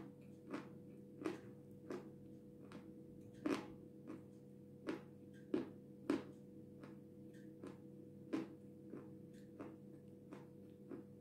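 Dry, powdery Jasmin eating clay being chewed: short soft crunches at an even pace of about one and a half a second.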